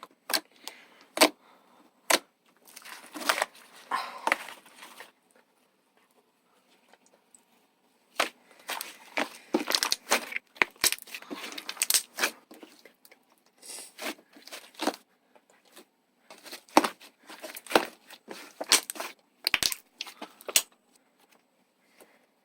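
Slime being squished and worked by hand: irregular sharp clicks and crackling pops, with a pause of about three seconds some five seconds in.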